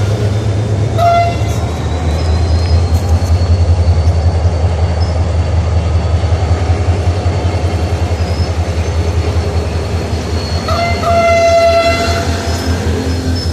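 Pakistan Railways diesel locomotive running with a loud, steady low throb. Its horn gives a short toot about a second in and a longer blast of about a second near the end.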